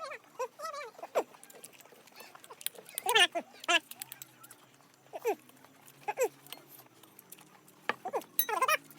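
An animal's short pitched calls, about eight of them, each under half a second and arching up and down in pitch, spaced unevenly with pauses between.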